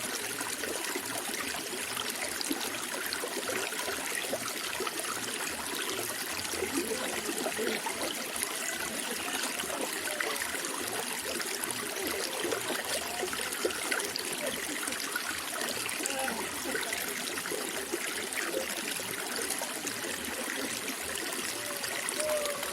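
Running water trickling and burbling steadily, a continuous even rush flecked with small gurgles.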